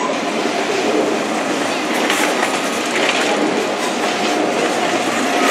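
DB ICE 3 (class 403) high-speed electric train rolling slowly past, its wheels giving a steady rolling rumble with a few clacks over the rail joints and points.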